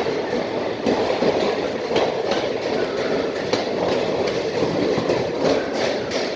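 Express passenger train coaches running through at speed: a steady rushing rumble with wheels clattering irregularly over rail joints.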